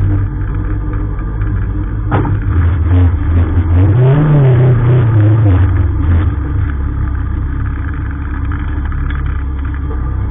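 Lada 2107 rally car's four-cylinder engine, heard from inside the cabin. A sharp clunk about two seconds in, then the engine revs up and back down as the car moves forward, and it settles to a steady run at low revs.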